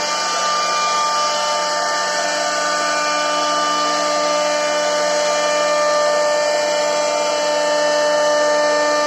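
CNC router spindle running at high speed with a steady whine while its bit carves a wooden board, giving a continuous cutting hiss.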